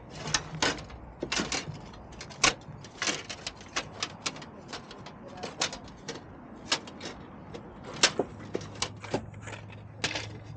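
A run of irregular sharp clicks and knocks, several close together at times, with a faint low hum coming in near the end.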